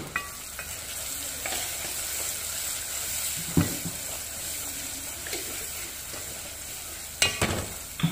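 Onions and spices frying and sizzling in oil in an aluminium pot while a wooden spatula stirs them. The spatula knocks against the pot now and then, with a few knocks close together near the end.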